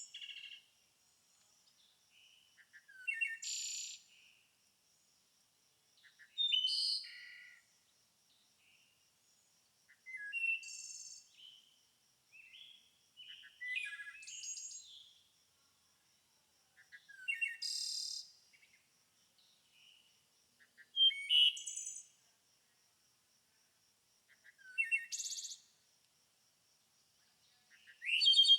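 A songbird singing short, varied, high phrases, one about every three and a half seconds, about eight in all. A faint steady high insect trill runs underneath.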